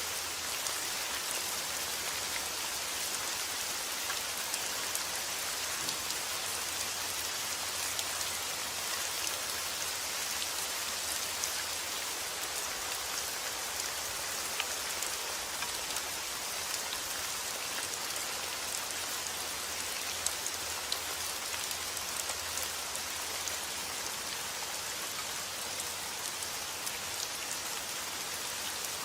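Steady rain falling on a surface, an even hiss dotted with many individual drop ticks and an occasional louder drop.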